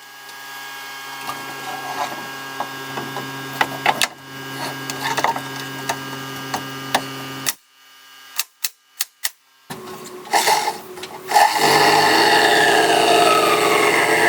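A power tool working on wood. A steady motor hum builds up and runs for about seven seconds, then stops abruptly. A few sharp clicks follow, and in the last few seconds comes a loud, rough cutting sound.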